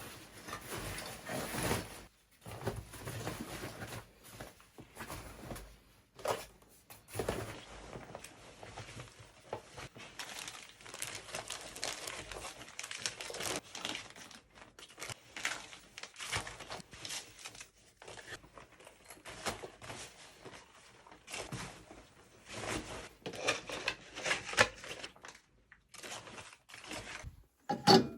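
Irregular crinkling and rustling, like plastic or nylon material being handled, with small clicks.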